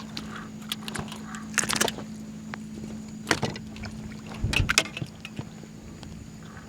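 Scattered knocks and clicks of handling on a small fishing boat, loudest in a cluster with a dull thud just past the middle, over a steady low hum.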